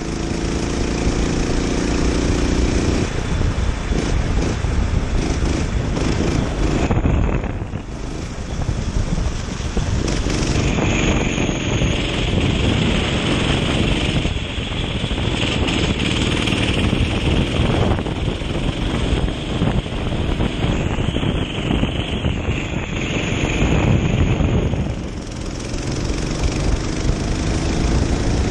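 Kart engine running hard, with wind buffeting the onboard microphone. The engine note drops briefly about seven seconds in and again about twenty-five seconds in, then climbs again as the kart accelerates.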